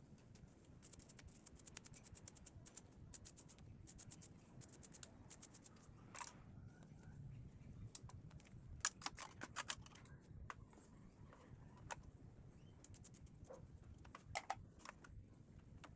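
Faint trains of quick, sharp clicks with a few louder knocks: hand work on a Roomba robot vacuum's plastic parts.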